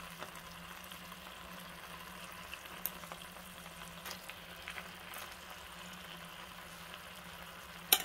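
Longganisa sausages sizzling steadily in oil in a small pan on a mini electric grill, with a low hum under it. A fork clicks lightly against the pan now and then, and a sharp knock comes near the end.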